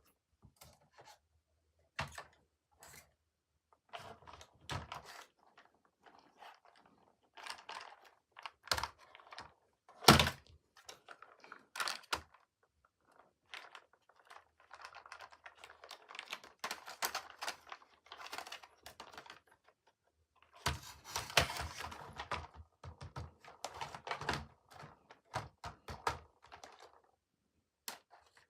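Toy trains and their packaging being handled during unboxing: scattered plastic clicks, knocks and rustling. There is one sharp knock about ten seconds in, and longer spells of clatter and rustling in the second half.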